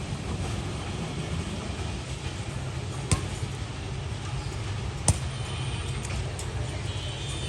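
Steady low rumble of an intercity train running, with two sharp clicks about three and five seconds in.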